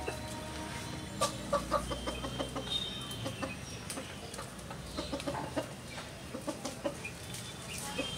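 Birds calling: many short calls in quick succession, with a few thin high notes among them.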